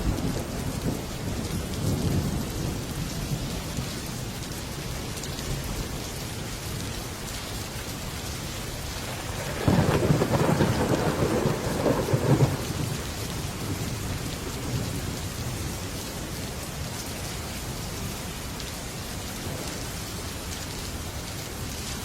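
Heavy rain falling steadily on a metal roof, with thunder: a low rumble dies away at the start, then a sudden thunderclap breaks about ten seconds in and rolls on for about three seconds before the rain is left alone again.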